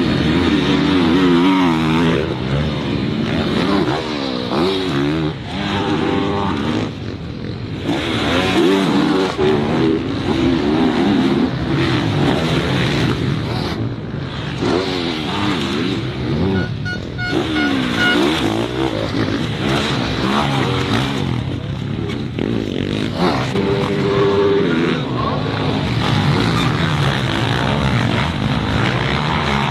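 Motocross dirt bike engines revving up and falling off again and again as they race, often several bikes at once, with abrupt changes every few seconds.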